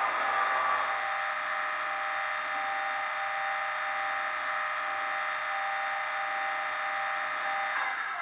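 Sound-fitted Bachmann Class 20 model diesel locomotive's DCC sound decoder playing the engine through its small onboard speaker, a steady tinny drone of several held tones. It runs down near the end as the loco is shut down.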